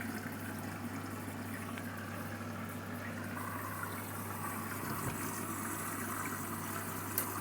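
Candy washing machine with water flowing and splashing inside it over a steady low hum.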